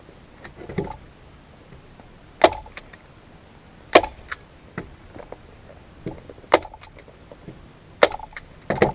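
Staple gun firing staples through a leather seat cover into a plastic ATV seat base: a series of sharp snaps, roughly one every second or so.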